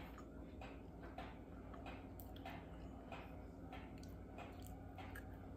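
Faint chewing of a crumbly iced cookie: soft, even crunches about three a second over a low steady room hum.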